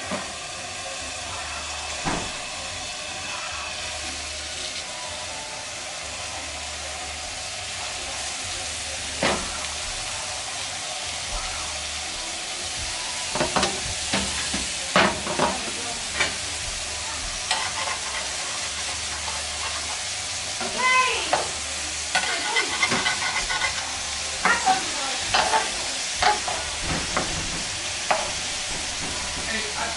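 Steak patties frying in hot oil in a skillet: a steady sizzling hiss. From about halfway in come frequent knocks and clinks as the patties are laid in and a metal spatula works against the pan.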